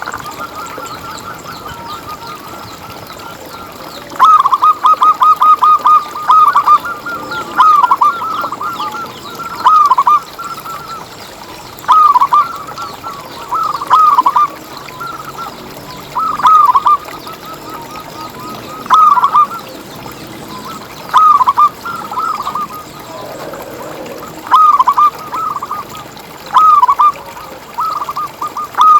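Zebra dove (perkutut) cooing: short phrases of quick, rolling coo notes, one phrase about every two seconds, beginning about four seconds in. Faint high chirping runs underneath.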